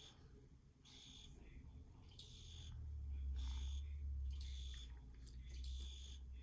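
Field cricket chirping: short, high chirps repeating about once a second. A low rumble rises underneath from about three seconds in.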